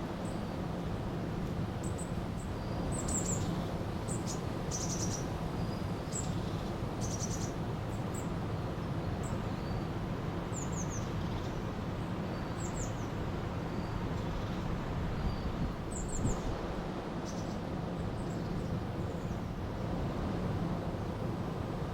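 Steady rushing of a river, with short, high bird chirps and trills scattered over it every second or two.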